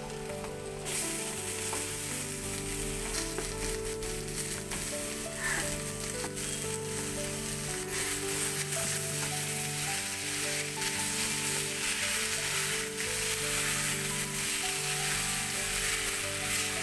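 Boiled spinach and potato sizzling steadily in hot mustard oil with fried onion and garlic in a wok (kadai), stirred with a wooden spatula. The sizzle grows louder about a second in as the wet greens land in the oil. Soft background music with held notes plays underneath.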